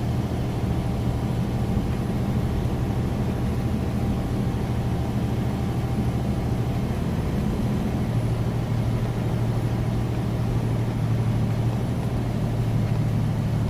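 Semi-truck diesel engine running steadily under way, heard from inside the cab as a constant low drone that grows slightly stronger about eight seconds in.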